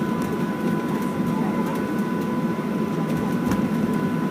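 Steady interior cabin noise of a Boeing 737-700 on the ground: a low, even rumble with a thin steady whine over it, and a faint low thump about three and a half seconds in.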